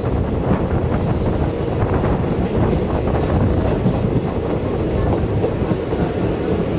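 Indian Railways passenger train running along the track, heard from a coach: a steady rumble of wheels on rails with light clatter and some wind.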